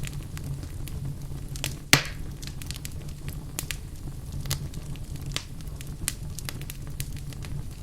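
Wood fire burning in a fireplace: a steady low rumble of flames with irregular crackles and pops from the burning logs, one loud pop about two seconds in.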